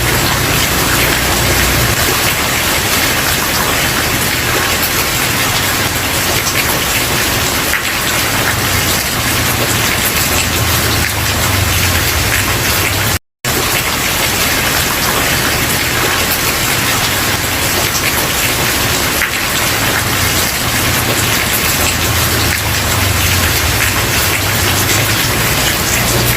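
Steady rain falling on a wooden porch, a dense, even hiss of drops that cuts out completely for a split second about halfway through.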